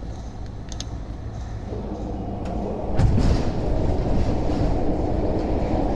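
MTR West Rail Line electric train (a TML C-train) pulling into the platform: a low rumble that builds as it approaches, then jumps sharply louder about three seconds in as the cars reach the microphone and run past alongside.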